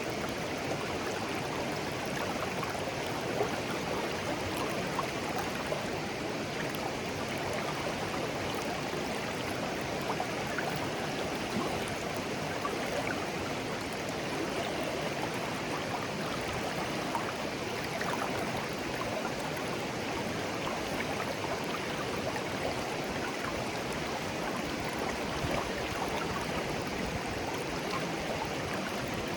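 Shallow stream of clear water flowing steadily over stones, an even babbling with small gurgles and trickles.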